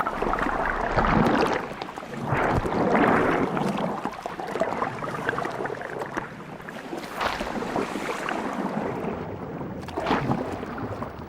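Sea water rushing and splashing against the hull of a moving boat, swelling and easing in several surges.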